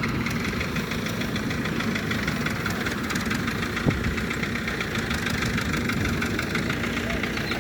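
An engine running steadily with a fast, even beat, and a single sharp click about four seconds in.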